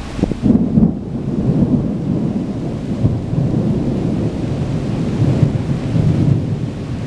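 Thunder rumbling continuously for several seconds, swelling about half a second in and again near the end, over falling rain.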